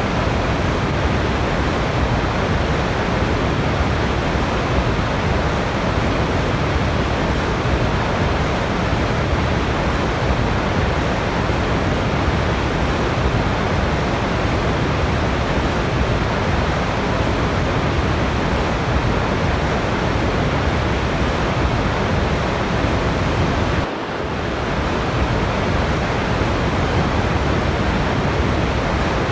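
Waterfall rushing: a steady, even wash of falling water that dips briefly in level once, about four-fifths of the way through.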